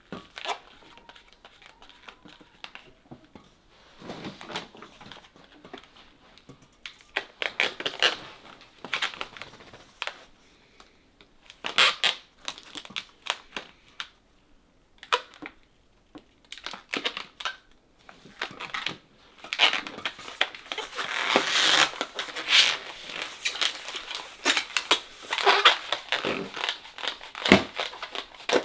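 Inflated latex modelling balloons squeaking and rubbing in the hands as they are pinched and twisted, in irregular spurts that get busier near the end. The balloon won't take a twist: the handlers think it is blown up too much.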